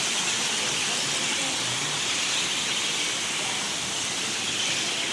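Steady, even hiss of outdoor background noise, strongest in the upper register, with no single call or event standing out.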